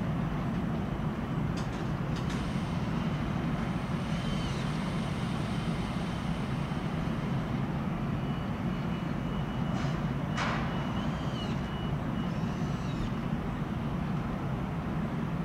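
Steady low rumble of an ÖBB Railjet train at the platform, with a few sharp clicks about a second and a half, two seconds and ten seconds in, and a faint thin squeal around the middle.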